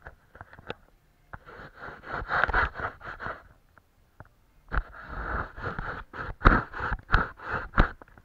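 Paintbrush scrubbing and stroking on paper, a rapid run of short scratchy strokes in two spells of two to three seconds each.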